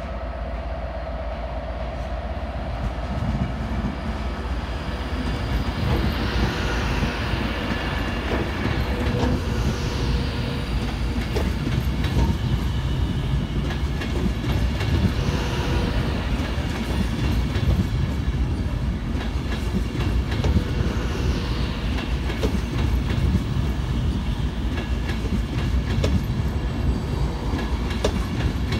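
Avanti West Coast Pendolino electric train running past alongside the platform at close range: a steady rolling rumble that builds over the first few seconds, with wheel clicks over the rail joints throughout.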